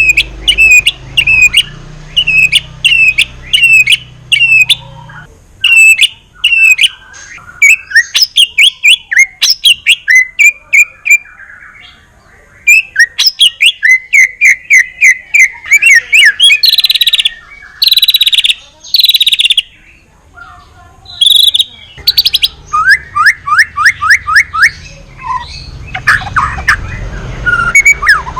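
White-rumped shama (Medan murai batu) singing a loud, varied song without pause: runs of repeated sweeping notes about two a second, fast trilled series and brief high bursts.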